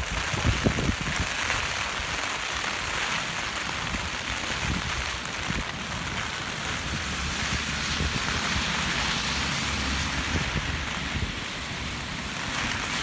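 Steady noise of heavy typhoon rain, with low gusts of wind buffeting the microphone in the first second or so.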